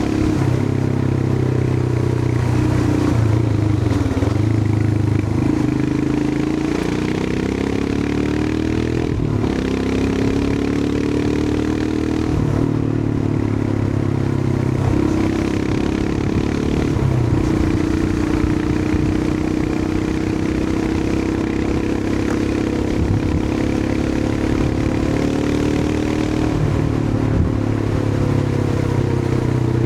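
Royal Enfield Himalayan 411's 411 cc single-cylinder engine running under way, its note rising and falling several times with throttle and speed, over a haze of wind and road noise.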